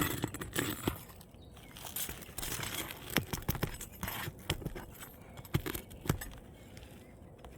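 Irregular scraping and sharp clicks of a roofer's hatchet prying roofing nails out from under lifted asphalt 3-tab shingles.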